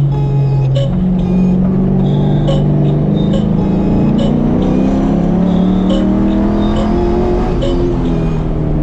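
Performance truck engine under acceleration, its pitch climbing steadily for several seconds before dropping back near the end, over music with a steady beat.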